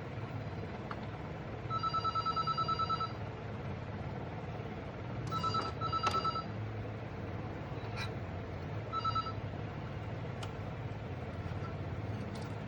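Electronic beeper sounding: a rapid run of pulsed beeps lasting about a second, then two short beeps and a single beep a few seconds later, with a few sharp clicks in between over a steady low hum.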